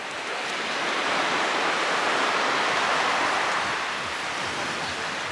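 Ocean wave breaking and washing up the beach: a rushing noise that swells over about two seconds, then fades.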